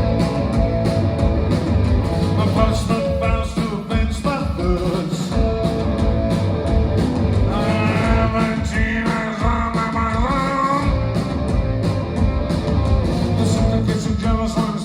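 A rock band playing live, with a steady drumbeat, guitars and a singing voice; the vocal line is most prominent about halfway through.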